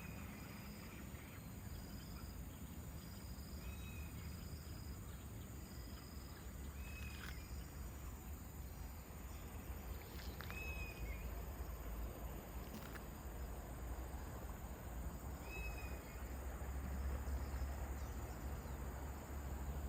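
Open-air ambience: a steady low rumble of wind noise under a bird's short chirps, repeated every few seconds. A run of short, thin high notes comes about once a second in the first half, and a few faint clicks are scattered through.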